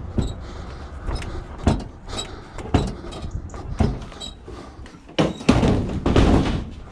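A sheet-metal tumble dryer being walked along by hand, rocked from corner to corner: a string of knocks and clunks about once a second, then a longer, louder scraping clatter near the end.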